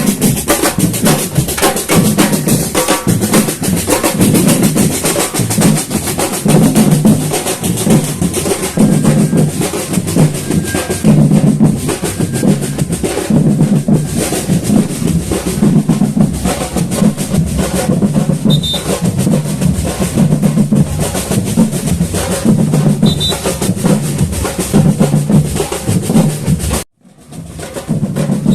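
Samba batucada drum ensemble playing a steady, driving groove: deep bass drums under snares and other percussion. The sound cuts out for about a second near the end, then comes back.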